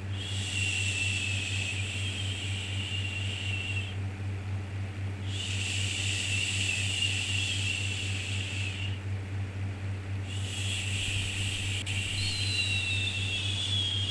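A soothing 'shhh' shushing sound repeated in long strokes of about three and a half seconds, three times, with short breaks between. Near the end a second shush overlaps the third. Underneath runs a steady low hum.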